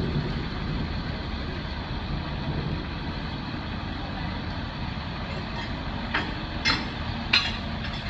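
Steady low rumble of a vehicle engine running under an even hiss, with three sharp clicks or taps about six to seven and a half seconds in.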